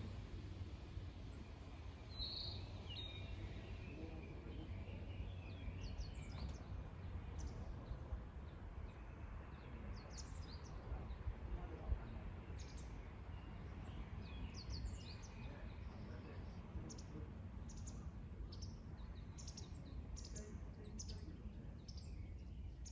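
Wild birds chirping and singing, with scattered short high calls that come more often in the second half, over a steady low background rumble.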